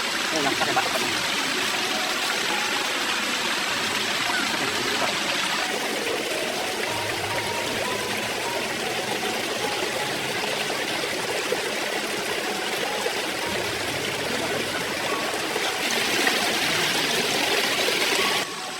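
Mountain stream water flowing and splashing steadily, changing abruptly about six seconds in and again shortly before it cuts off at the end.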